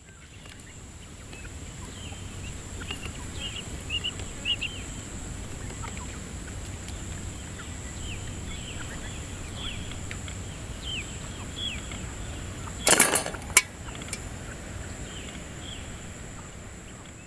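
Birds chirping in many short, quick notes over an outdoor background with a steady high whine. About thirteen seconds in, a loud clatter comes, followed by a single sharp knock.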